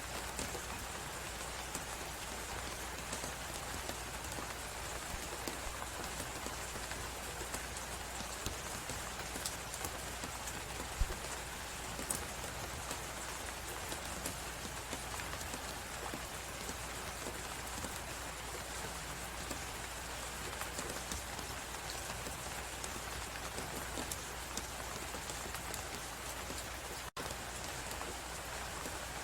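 Crackling fireplace under a steady blizzard wind: an even hiss with scattered small pops and one sharper pop about eleven seconds in. The sound drops out for an instant near the end.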